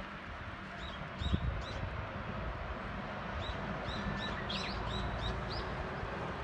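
Small birds chirping, a string of short high calls, over a steady outdoor background hum, with one dull thump early in the calls.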